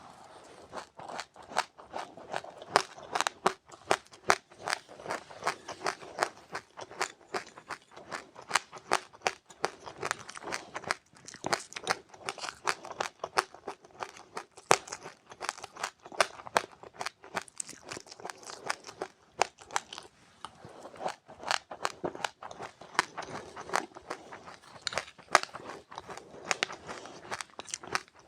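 Close-up chewing of crunchy seeds with passionfruit: a rapid run of sharp crunches, several a second, with brief lulls.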